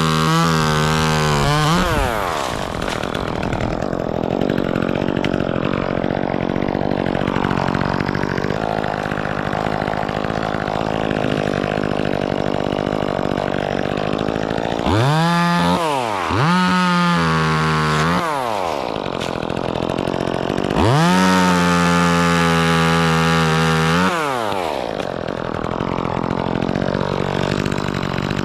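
Chainsaw idling and revved to full throttle four times, the pitch climbing, holding and dropping back each time: once at the start, twice in quick succession about halfway through, and once for about three seconds near the end.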